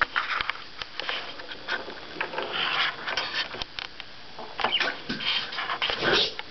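Pet budgerigar chattering in short, scratchy bursts with a few quick falling chirps, mixed with scattered small clicks and taps.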